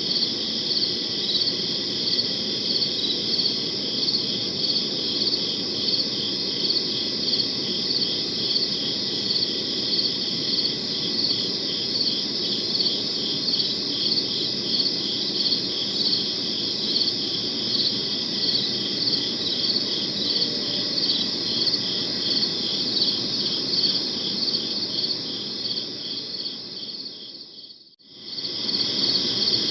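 Crickets chirping in a steady, evenly pulsed high chorus over a low background hiss. Near the end the whole sound fades out almost to nothing and comes back about a second later.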